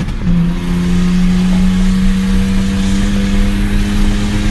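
Car engine droning at a steady, nearly unchanging pitch, with road and wind noise, heard from inside a moving car.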